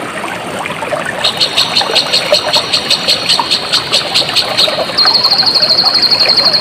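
Stream water trickling steadily. Over it, a high, rapidly pulsing call from a bird or insect starts about a second in and becomes a loud, even trill of about eight pulses a second near the end.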